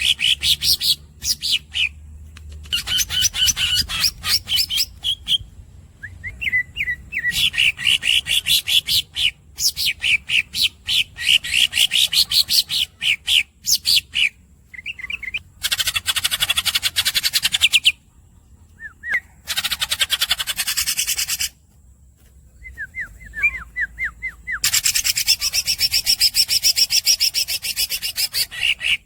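Green leafbird (cucak hijau) singing: long rolls of fast repeated notes, each phrase lasting a few seconds, with short pauses and a few squeaky chirps between them.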